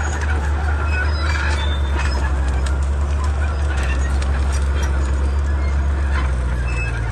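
Komatsu D31P bulldozer's diesel engine running steadily under load, with scattered sharp cracks and clicks over it; the engine note shifts near the end.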